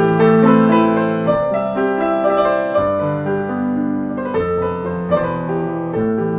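Slow, gentle piano music: sustained chords and melody notes that change about once a second, played softly at a calm, even pace.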